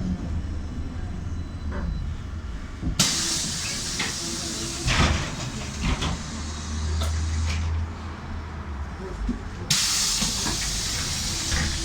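Trolleybus running with a low steady hum. About three seconds in, and again near the end, its pneumatic doors release a loud hiss of compressed air, with a few knocks in between.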